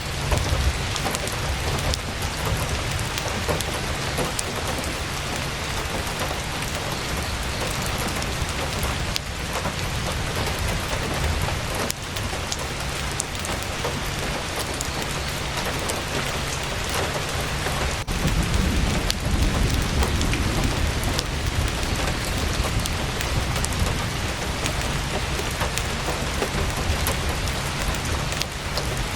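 Heavy rain drumming on tent canvas: a steady, dense hiss of drops with scattered small ticks, over a continuous low rumble.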